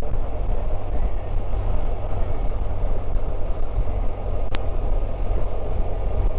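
Riding a BMW R1250 RT motorcycle: a steady low rumble of engine, wind and road noise, with one sharp click about four and a half seconds in.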